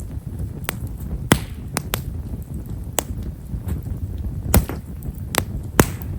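Himeshara (Japanese stewartia) firewood burning in an open fire, crackling with sharp single pops about once or twice a second over a steady low rumble. The crackle is fine and small, typical of this wood.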